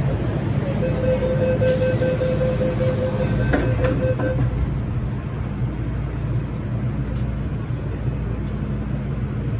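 MTR M-Train running between stations: a steady low rumble, with a steady whining tone that sounds for about three and a half seconds starting about a second in.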